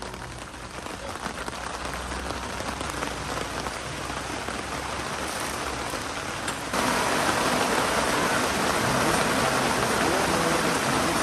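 Steady rain falling, growing gradually heavier, then suddenly louder about two-thirds of the way through.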